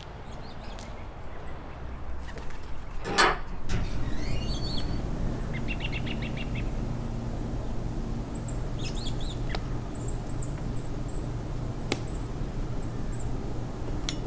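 Small birds chirping and twittering, with one short fast trill, over a steady low rumble. A single short loud clunk comes about three seconds in, just before the birds and rumble begin.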